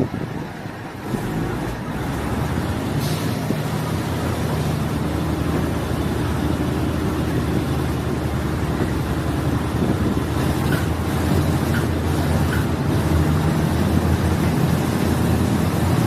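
Diesel multiple unit's engine and running gear on the move. The engine comes in about a second in and grows steadily louder as the train gathers speed.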